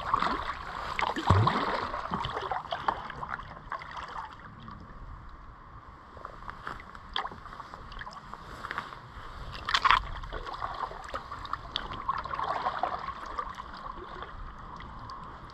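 Kayak paddle strokes in shallow river water: blades dipping and splashing, with drips and small splashes throughout and one sharper splash about ten seconds in. It is louder in the first few seconds.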